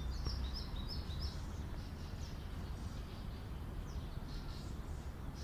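Small birds chirping over a steady low outdoor background rumble: a quick run of short high chirps in the first second and a half, then scattered single chirps.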